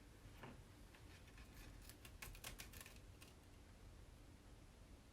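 Faint, quick clicks and light scrapes of a scraper working chalk paste over a silkscreen stencil, clustered about two to three seconds in.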